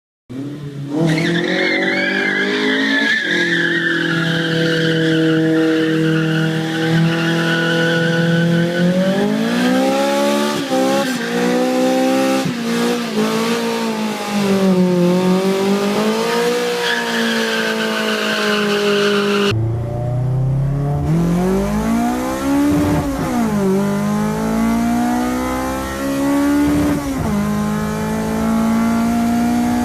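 Four-cylinder car engines running hard at high revs, the pitch rising and falling with throttle and gear changes. About two-thirds through, the sound cuts to a different car, whose engine revs climb steadily.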